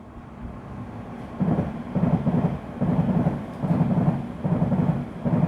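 A train passing close by: a low rumble that builds, then a regular low beat about once a second as the carriages go past.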